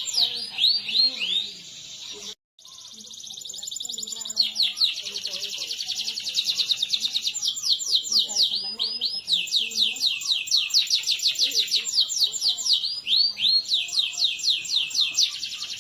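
Canary singing a fast rolling song of rapid, repeated descending notes in trilled runs, cut off briefly about two seconds in.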